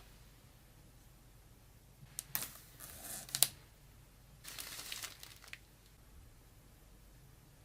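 Handling noise in two short spells: a few sharp clicks and rustling, the loudest click about three and a half seconds in, then a second, softer spell of rustling about a second later.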